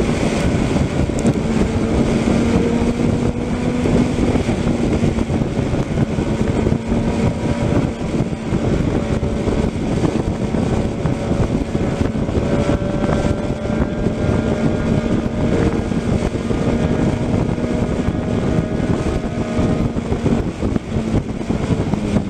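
Steady vehicle noise: an engine drone holding a near-constant pitch over a continuous rush of road and wind noise.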